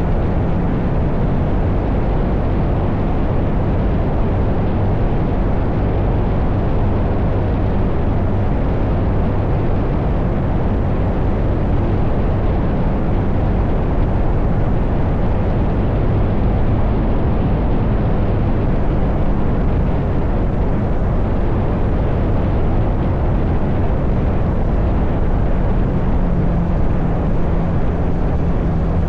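Motorcycle engine running at a steady cruise while riding, with wind rushing past.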